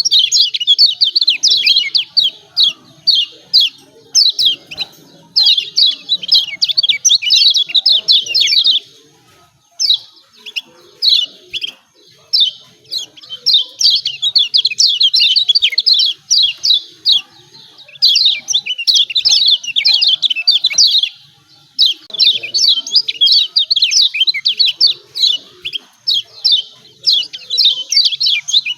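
Kecial kuning (Lombok yellow white-eye) singing its rapid 'ciak ciak' chirping song. It comes in long, fast runs of high notes, with short breaks between the runs.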